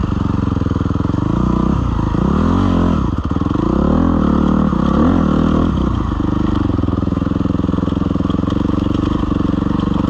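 Suzuki RM-Z250 single-cylinder four-stroke dirt bike engine running, with two quick rises and falls in revs about two and four seconds in, then running steadily.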